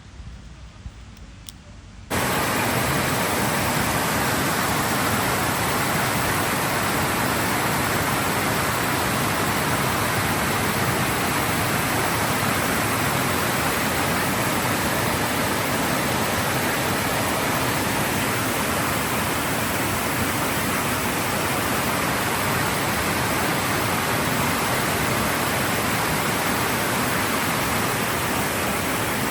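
Steady, loud rushing noise with no distinct events, like running water or strong wind, starting abruptly about two seconds in after a faint quiet stretch.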